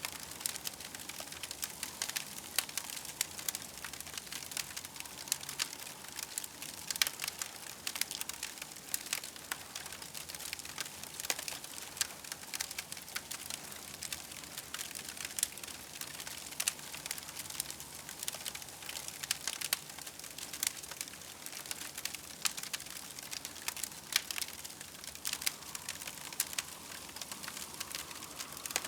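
Campfire crackling: many small sharp pops and snaps, irregular and dense, over a steady soft hiss.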